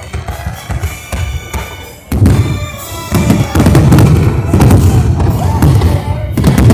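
Fireworks bursting in rapid succession, a dense barrage that jumps louder about two seconds in, with music playing along.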